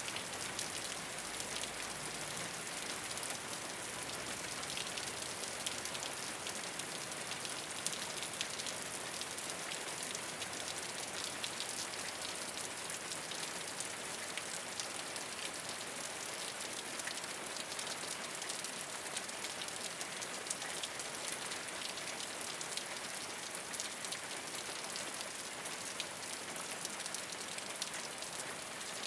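Steady rain falling on a rooftop, a constant hiss with many small drop ticks pattering throughout.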